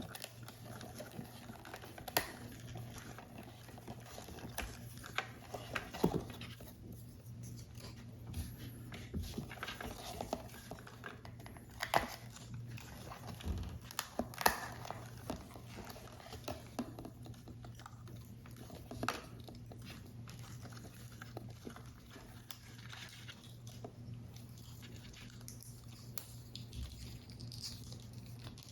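Hands working on a paper model: irregular small taps, clicks and paper handling noises, a few sharper than the rest, over a faint steady low hum.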